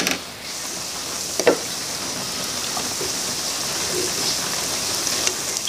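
Oil sizzling steadily under a grated-potato cake frying on an iron tawa, with one light knock about one and a half seconds in.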